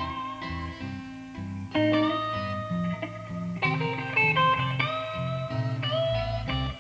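Electric guitar and a low bass line playing a blues jam, with chords struck and held over a bass line that steps from note to note.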